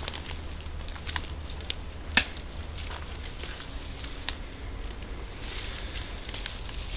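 A few scattered sharp clicks and snaps, the loudest a little past two seconds in, over a steady low rumble, with a soft hiss rising near the end.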